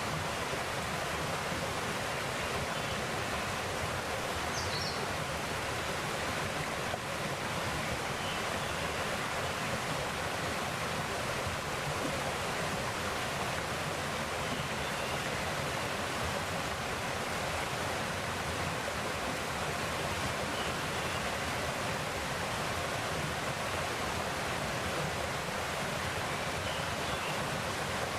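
Mountain valley stream flowing over rocks: a steady, even rush of water. A faint short high chirp, likely a bird, comes about five seconds in.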